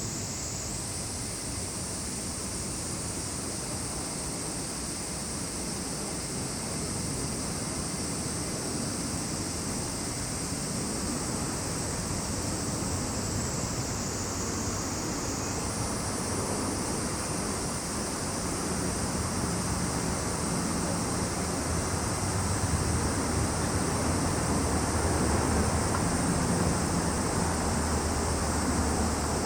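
A continuous high-pitched insect chorus, slowly sagging in pitch and stepping back up twice, over a low rushing rumble that grows louder in the second half.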